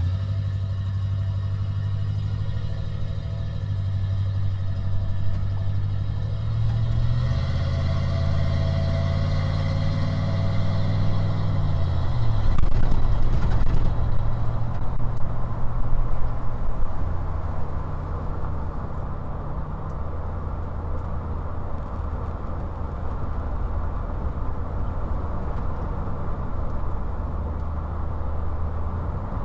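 1995 Ford Bronco driving, heard from inside the cab. The engine hums steadily, climbs in pitch about seven seconds in as it speeds up, then drops back near the twelve-second mark. A few seconds of louder, rougher road and engine noise follow before it settles into a steady cruise.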